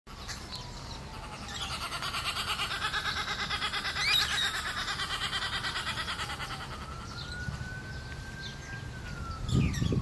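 Birds chirping and calling, with a sharp rising call about four seconds in and quick falling calls near the end, over a dense, fast-pulsing high buzz through the middle. A distant siren slowly falls and rises underneath, and there is a low thump near the end.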